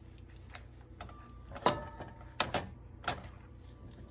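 Three sharp knocks about two-thirds of a second apart, with a brief squeak just before the first, as a dish of puppy food mush is handled and set down.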